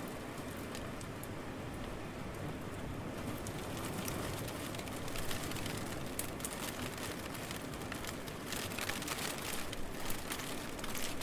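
Steady rain falling, with the patter of individual drops growing denser and brighter from about three seconds in, and a flurry of close drop hits near the end.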